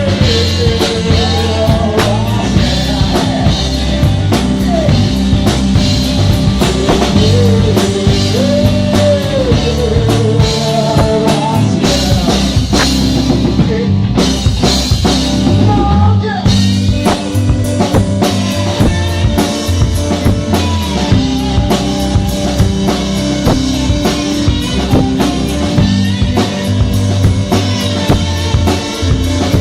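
A band playing: a drum kit keeping a steady beat with kick and snare under sustained bass notes, and a lead melody line that bends up and down in pitch.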